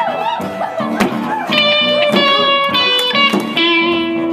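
Live instrumental music led by guitar, with bending and held notes.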